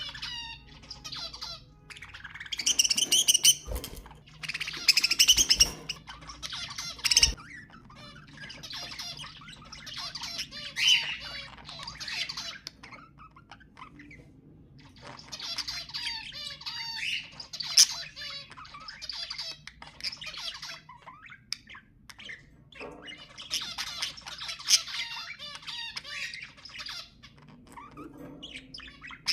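Budgerigars chattering and warbling in quick, squawky bursts with short pauses between them. Three low thuds come in the first eight seconds or so.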